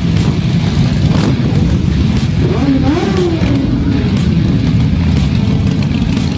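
Superbike engine running loud and steady, with a brief rev that rises and falls about halfway through.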